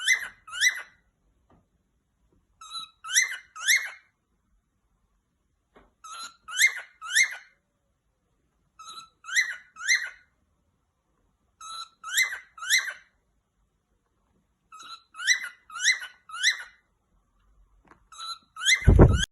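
Pet parrot giving a repeated call: a short lower note, then two or three quick rising chirps, again about every three seconds, seven times. A thump near the end.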